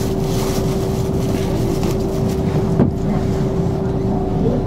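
Cabin noise of a diesel railcar under way: its engine drones steadily with a constant whine over the rumble of the running gear. There is a single knock a little under three seconds in.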